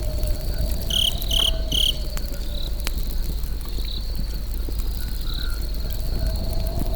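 Campfire burning with scattered crackles and pops over a steady low rush, while crickets trill continuously. About a second in, three short high chirps sound in quick succession.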